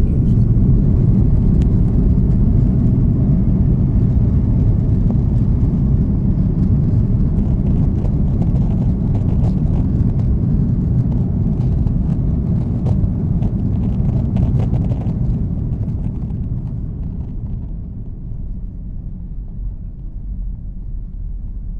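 Airbus A330-300 cabin noise: a loud, steady low rumble with faint rattling, easing off gradually over the last several seconds.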